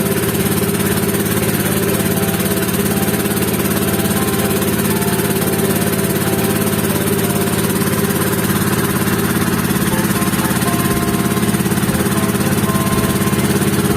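Motorized banca's engine running steadily under way, a constant drone with a fast even pulse, heard from on board.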